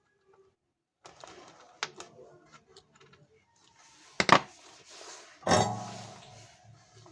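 Small clicks and rattles of phone parts and tools being handled on a bench, with a loud sharp knock a little after four seconds and another at about five and a half seconds that fades out slowly.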